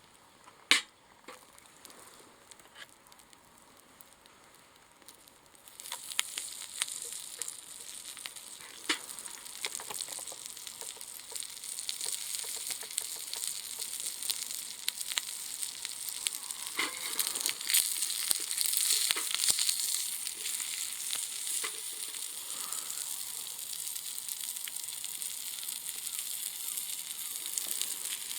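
Wood fire crackling and hissing, with dense small pops and snaps. The first few seconds are faint apart from one sharp snap; about six seconds in the hiss and crackle pick up and grow louder.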